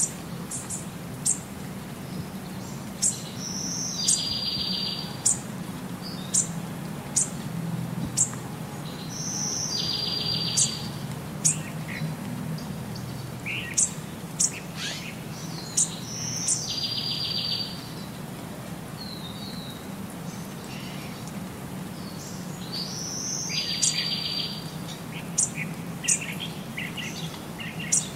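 Bird chirping: short high-pitched chirps every second or two, with a longer buzzy call about every six seconds, over a low steady hum.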